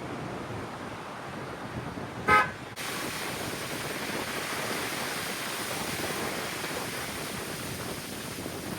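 A single short vehicle horn toot about two seconds in, over a steady rushing background noise.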